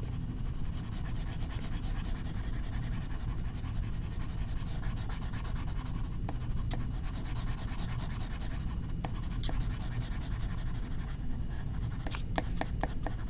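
Colouring tool scrubbed quickly back and forth on paper, shading in an area with a steady scratchy rubbing. A few sharp clicks or taps break in, the loudest about nine and a half seconds in, with a short cluster of small clicks near the end.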